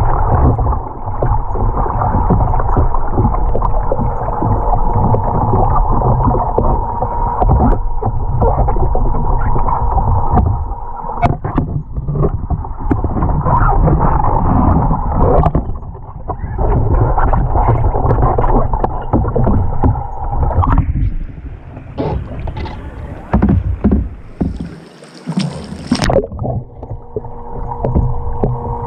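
Water sloshing and rushing around a kayak in a swimming pool, dense and muffled, with a steady hum underneath; it thins out for a few seconds near the end.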